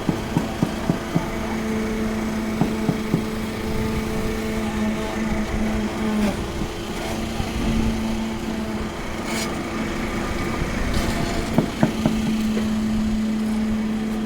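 Small engine running steadily at one speed on a concrete pour, with a few sharp knocks just at the start and a couple more near the end.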